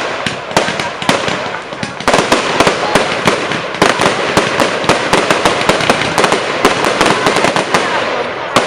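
Firework display going off in a dense barrage: many sharp bangs a second over continuous crackling, with no pause.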